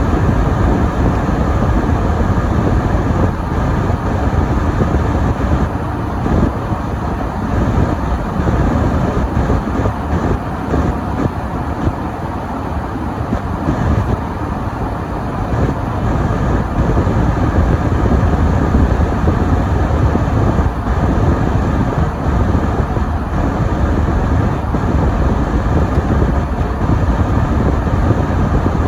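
A car driving on a snowy road: a steady low rumble of engine and tyre noise that swells and eases slightly without a break.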